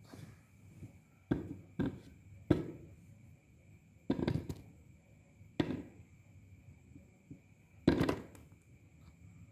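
About six separate dull knocks at irregular intervals, a second or two apart, with the loudest just before the end.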